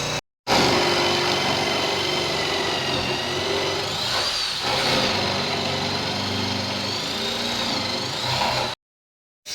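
Electric power tool running with a high whine that wavers in pitch as it takes load, broken off abruptly twice.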